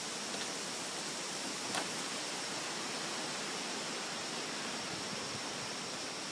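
Steady rushing noise of strong thunderstorm winds blowing through trees and foliage, even and unbroken, with one faint tick about two seconds in.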